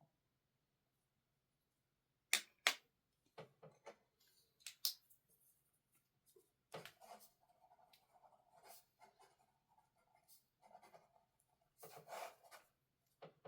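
Faint desk-work sounds: two sharp clicks about two and a half seconds in, then scattered taps, and in the second half stretches of scratchy rubbing like pen on paper.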